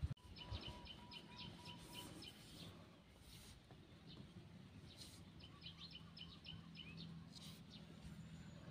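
Faint garden ambience with a small bird giving two quick runs of short high chirps, about five a second, one near the start and one about five seconds in.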